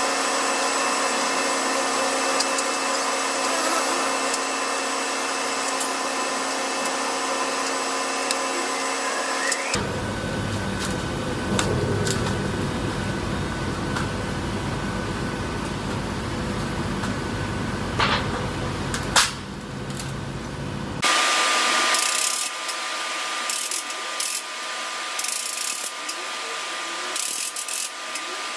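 Power tools running during metal or parts fabrication: a steady motor whine with clicks and scraping, cut abruptly into three different passages, about ten seconds in and again about twenty-one seconds in.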